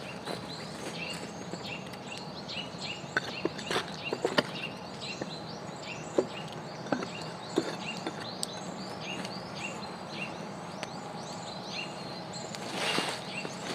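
Small birds chirping over and over, with scattered knocks and crunches and a short rush of noise near the end.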